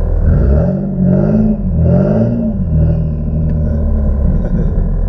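Single-turbo Infiniti G37's V6 engine revving up and falling back twice in quick succession, then settling into a steady drone.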